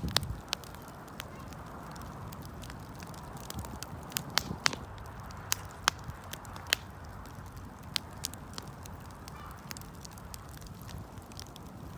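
Wood fire crackling: irregular sharp pops and snaps, coming thicker about four to seven seconds in, over a steady low rumble.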